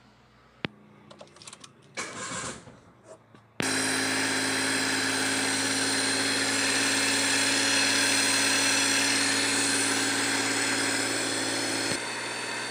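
Maruti 800's three-cylinder petrol engine running steadily just after a fresh oil change, heard close from beneath the car while the oil pan is checked for leaks. It comes in suddenly about three and a half seconds in, after a few faint clicks and a rustle, and gets somewhat quieter near the end.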